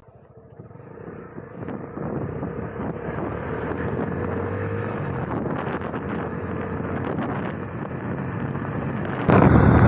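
Motorcycle riding along with wind rushing over the microphone and a faint steady engine hum, building over the first couple of seconds and then holding steady.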